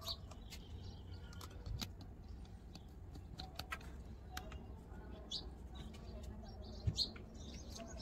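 Birds chirping in short, scattered calls, with light clicks and two dull knocks, one early and one near the end.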